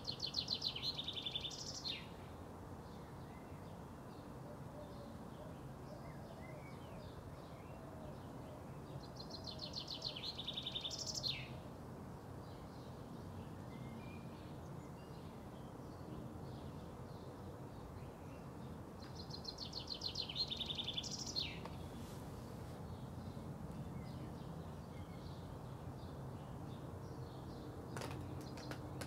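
A songbird singing the same short phrase three times, about ten seconds apart: a fast trill of repeated notes ending in one quick falling note. A steady low outdoor rumble lies underneath, and a few sharp clicks come near the end.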